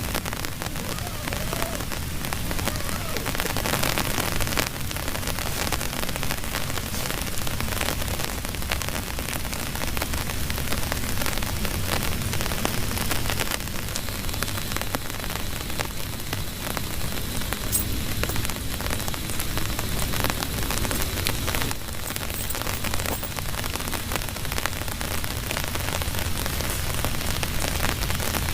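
Heavy rain falling steadily, with a dense patter of drops striking a surface.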